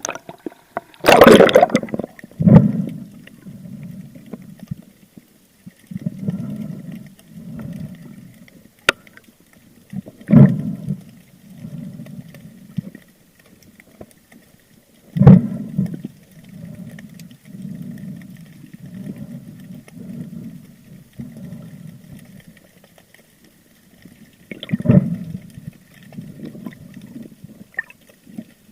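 Water moving and gurgling around an underwater camera in repeated low pulses, with a few sharp, loud splashes.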